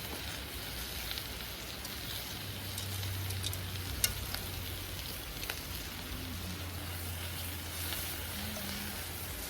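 Wood campfire burning with a steady hiss and scattered sharp crackles, one louder pop about four seconds in.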